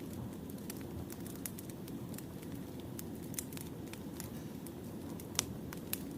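Wood fire crackling: a steady low rumble of burning logs with scattered sharp pops and snaps, the loudest two near the end.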